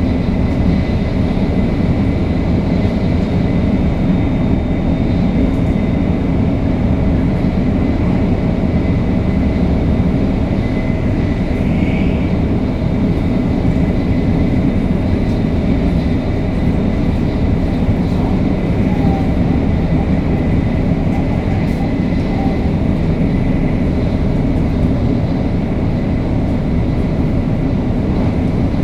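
500 series Shinkansen running steadily at speed: a constant rumble of wheels on rail, with steady high tones from its Toshiba GTO-VVVF traction equipment that hold one pitch throughout.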